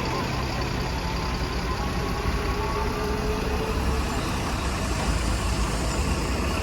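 Heavy goods truck engine running with a steady low rumble amid highway traffic.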